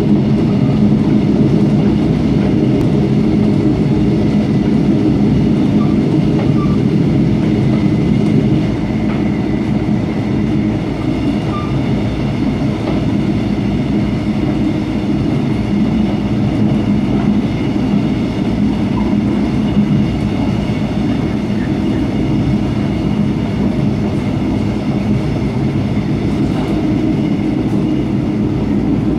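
Steady running noise of a Mugunghwa-ho passenger coach at speed, heard from inside: a low, even rumble of wheels on the rails and the coach body. It drops slightly in level about eight seconds in.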